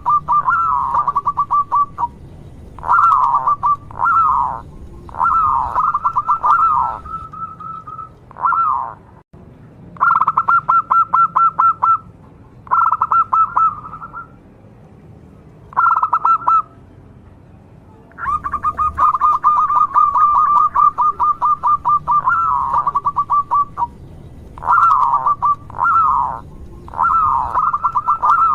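Zebra dove (local perkutut) singing: phrases of fast, trilling coos about a second or two long, broken by short pauses. Near the middle and again later it holds a longer run of several seconds.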